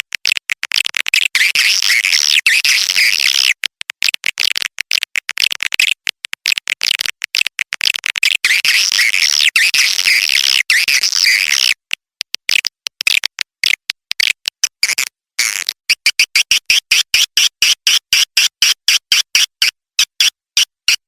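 Recorded edible-nest swiftlet lure call, a swiftlet-house calling track: dense, shrill chattering twitter, chopped by many short gaps. In the last five seconds it changes to a quick run of separate chirps, several a second.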